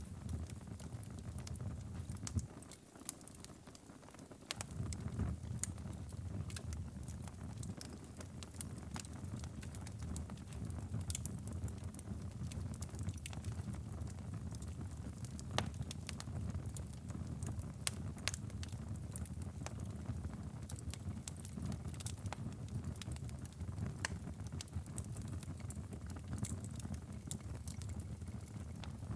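Wood fire in a fireplace crackling, with frequent sharp pops, over a steady low rumble. The rumble drops away briefly about three seconds in.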